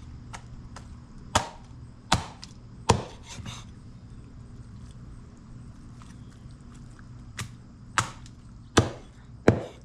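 Knife chopping chicken on a cutting board: sharp single chops at uneven intervals, a cluster of four in the first few seconds and three more near the end, with a quiet pause between.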